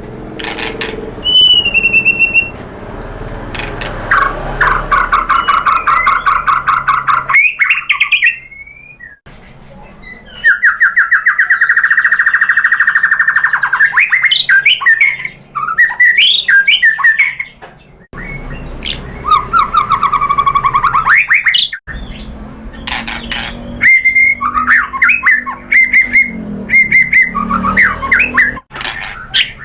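White-rumped shama (murai batu) singing a varied, loud song. Clear whistled notes alternate with long, rapid trills and quick chattering phrases, with brief pauses between song bouts.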